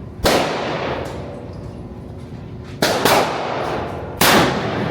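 Three gunshots at an indoor shooting range: one just after the start, one near three seconds and one about four seconds in, each echoing on in the room.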